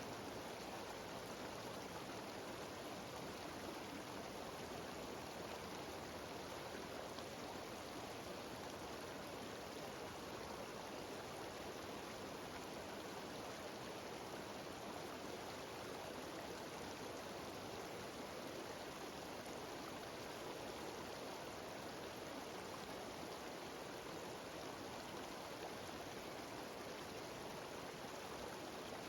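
Mountain waterfall rushing steadily: an even, unbroken wash of falling water.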